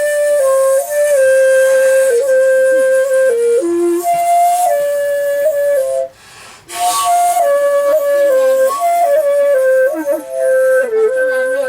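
Solo shakuhachi playing a slow melody of long held notes with a breathy edge and small bends in pitch, broken once about six seconds in by a short pause for breath.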